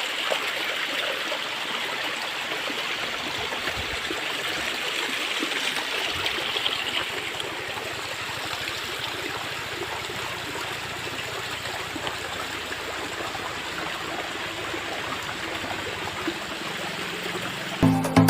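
Small waterfall's water running steadily over and out from between rocks, an even rushing and splashing. Near the end, music cuts in loudly.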